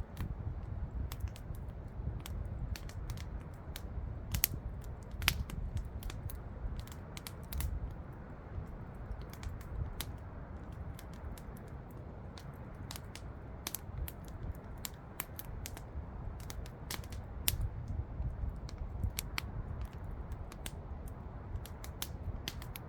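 Campfire burning, wood crackling with sharp pops and snaps at irregular intervals over a low steady rumble.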